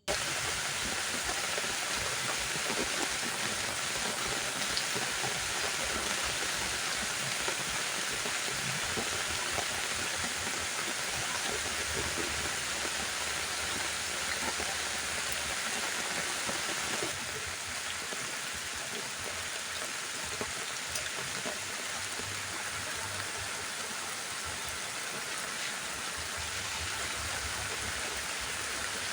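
Heavy rain falling steadily, with a low rumble in the middle. The downpour eases slightly after about seventeen seconds.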